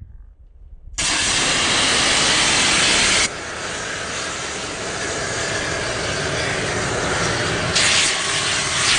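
A loud, steady hiss that starts suddenly about a second in, drops a little in level a couple of seconds later, then carries on evenly.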